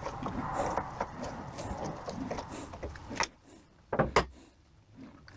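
Small metal parts of a 42RE transmission valve body being handled and worked apart, with scraping and rustling for the first few seconds. Then a click and, about four seconds in, two sharp metallic clicks close together.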